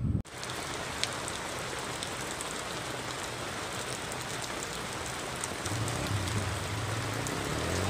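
Rain falling on a lake's surface and the bank around it: an even hiss with scattered sharp drop ticks, starting abruptly just after the opening.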